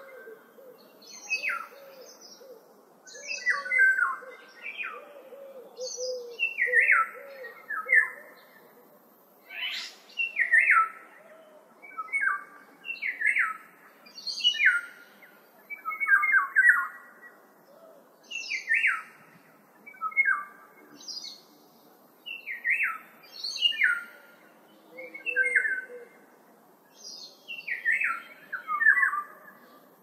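Bird calls: short chirping notes that fall in pitch, repeated in quick clusters every second or two.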